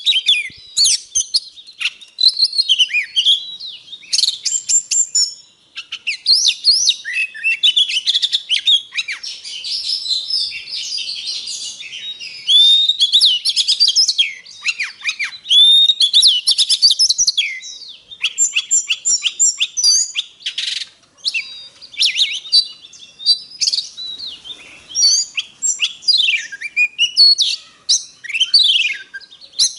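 Oriental magpie-robin singing a long, unbroken, varied song of clear whistles, slurred rising and falling notes and quick chirps, with runs of short sharp notes in the second half.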